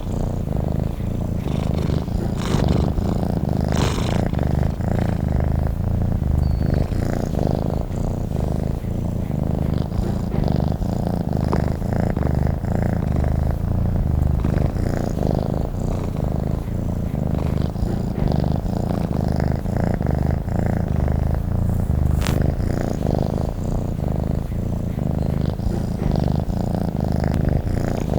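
Domestic cat purring steadily: a continuous, fast-pulsing low rumble.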